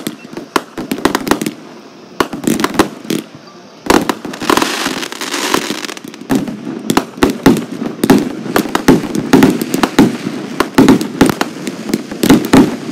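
Consumer fireworks display: aerial shells bursting in rapid, irregular bangs and pops, with a stretch of hissing crackle about four seconds in.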